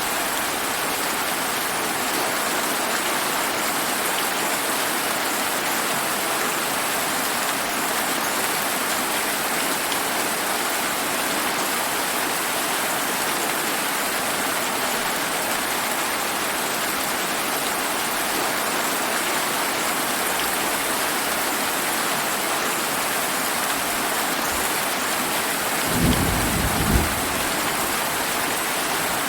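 Steady summer rain falling in an even hiss, with a brief clap of thunder near the end.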